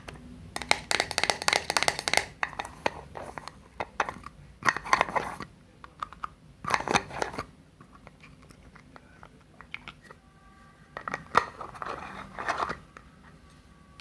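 Close-up ASMR handling sounds: four bursts of crinkling, crackling noise with quiet gaps between them.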